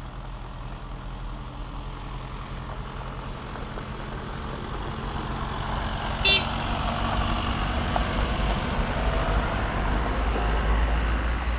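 Hino 500 FM 260 JD truck's six-cylinder diesel engine running inside the cab, with road noise, growing steadily louder as the truck works harder. A brief sharp squeak or click about halfway through.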